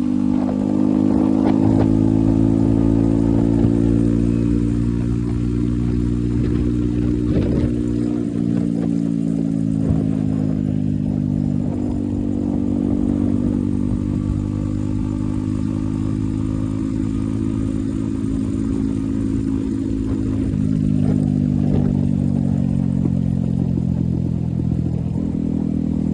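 Yezdi Roadster's single-cylinder engine running through an aftermarket Akrapovic exhaust while riding. The engine note drops in steps about a third of the way in and climbs again later on.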